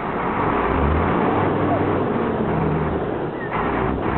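A large vehicle engine running, a steady low hum under a dense rushing noise.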